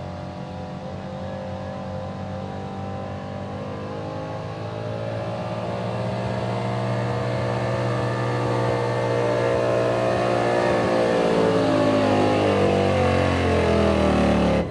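Pickup truck engine at high revs, pulling the weight sled down the track, getting louder through the run. Its pitch sags over the last few seconds as the sled bogs the engine down, then the sound cuts off abruptly.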